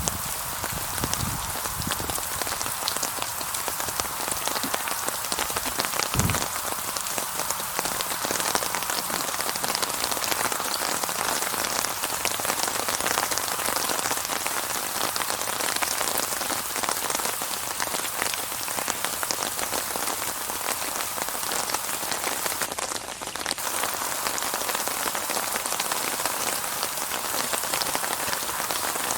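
Steady heavy rain, a dense patter of drops hitting a surface without thunder. A single dull thump sounds about six seconds in.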